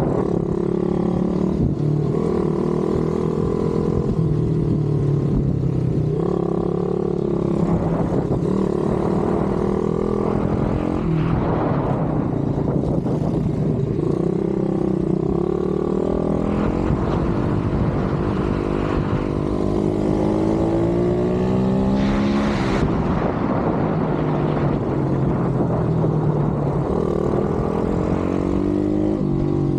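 Pit bike engine being ridden hard: it revs up and down again and again as the throttle opens and closes, with a long climb in pitch about two-thirds of the way through.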